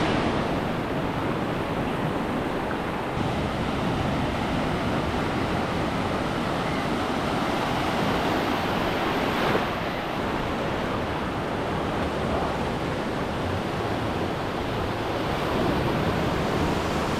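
Ocean surf washing up on a sand beach, a steady rush with one wave swelling a little louder about halfway through.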